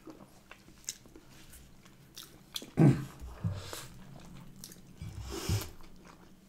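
Eating sounds: biting into and chewing a loaded sandwich in a soft bun, with small wet clicks, a sharper crunch about halfway through and another near the end. The loudest moment is a low thump about three seconds in.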